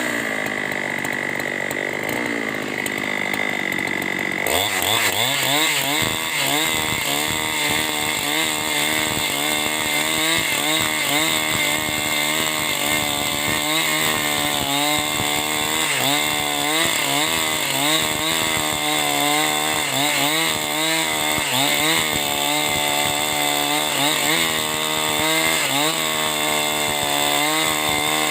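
Two-stroke chainsaw dropping to a low speed, then throttled up about four seconds in and running at high speed. Its pitch wavers under load as it cuts through timber to make lumber.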